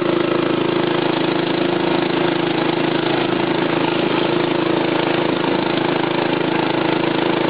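Craftsman lawn tractor's 12.5-horsepower engine running steadily at one constant speed while the tractor is driven along in fifth gear.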